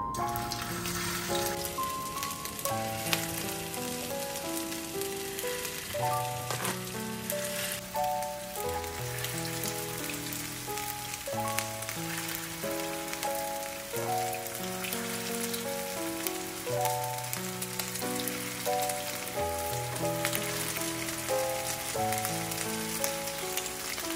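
Food sizzling steadily as it fries in hot oil, starting at once, with piano background music playing a slow melody over it.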